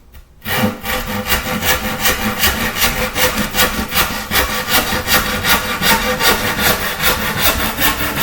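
Handsaw cutting a piece by hand in rapid, even back-and-forth strokes, starting about half a second in.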